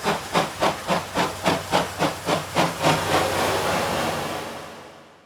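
Steam locomotive C11 207, a JNR Class C11 tank engine, working under steam, its exhaust chuffing in even beats about four a second. After about three seconds the beats blur into a steady rush that fades away near the end.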